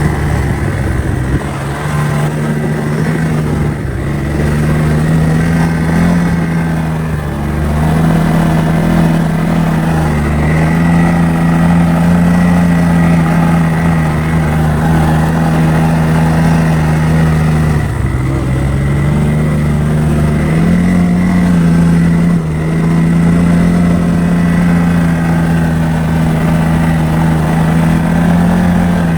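A motor engine running steadily at mid revs, its pitch dipping and picking back up several times as the throttle or load changes.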